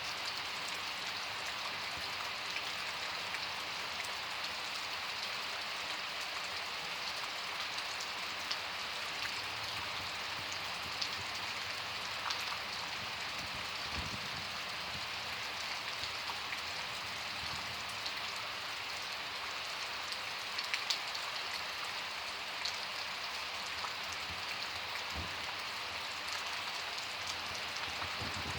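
Steady rain from a summer thunderstorm: an even hiss of rainfall, with scattered single drops tapping louder through it.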